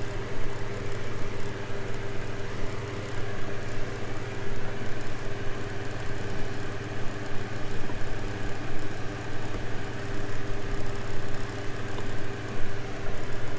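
Steady hum of a running motor.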